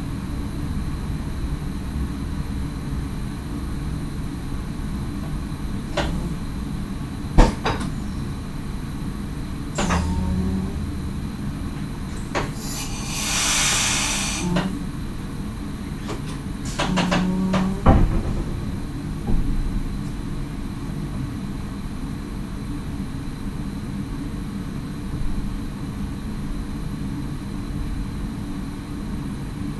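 Inside the cab of an NS SGM Sprinter electric train: the steady low rumble of the running train, with several sharp clicks and knocks and, near the middle, a hiss lasting about two seconds.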